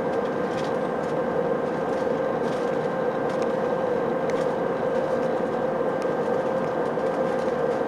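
Steady cabin noise inside an Airbus A319-131 in flight: a constant rush of airflow and engine noise with a steady hum.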